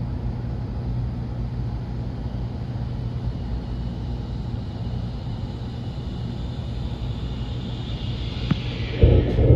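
Running noise of the Nishi-Kyushu Shinkansen heard inside the passenger cabin: a steady rumble and hum at speed. Near the end a hiss builds, then a sudden loud burst, after which the noise abruptly drops.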